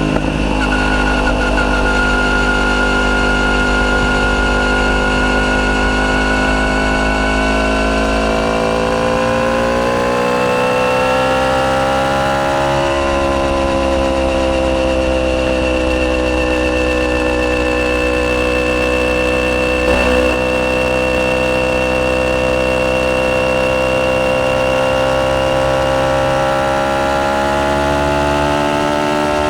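Yamaha YZF-R1's crossplane inline-four engine running through an Akrapovic full titanium exhaust at steady moderate revs. Its note rises slowly over the first dozen seconds and then holds steady.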